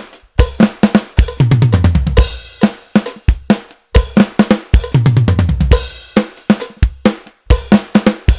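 Acoustic drum kit played at tempo: a 16th-note fill of right-hand, left-hand, kick groupings followed by pairs of strokes on the snare, high tom and floor tom, with crash cymbals landing every few seconds.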